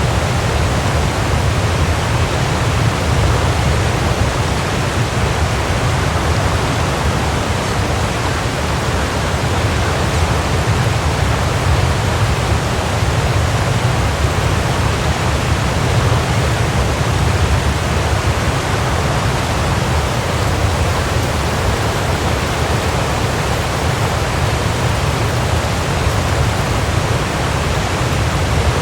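Waterfall: a steady, full rush of falling water with a deep low rumble underneath.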